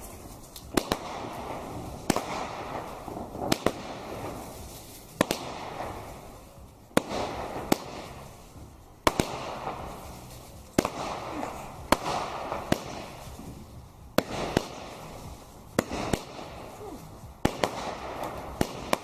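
Fireworks going off: a series of sharp bangs, roughly one every one to two seconds, with a steady crackling hiss between them.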